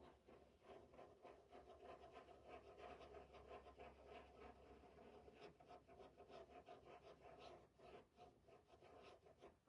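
Stencil brush working paint through a stencil, a faint, rapid scratchy dabbing and rubbing of bristles on the surface.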